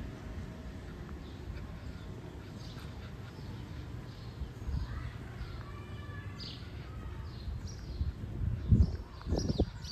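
Birds chirping in short, high, falling calls over a steady outdoor rumble, thickening through the second half. Two low thumps come near the end.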